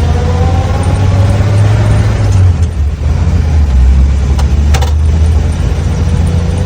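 1947 Dodge truck's flathead six running under way, loud and low, with a whine that rises in pitch during the first second or so. The level dips briefly just before three seconds in, then the engine runs on steadily.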